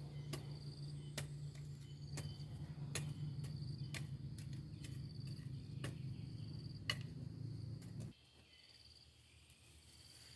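Crickets chirping in short trills that repeat about every second and a half, over a low steady rumble, with scattered sharp clicks. The rumble cuts off suddenly about eight seconds in, while the chirping goes on.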